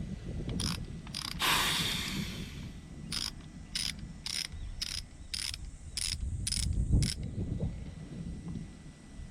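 Ratchet wrench being worked in short strokes, each a quick burst of clicks. There are two strokes near the start, then a rush of hiss lasting about a second, then a run of eight strokes about two a second from about three seconds in.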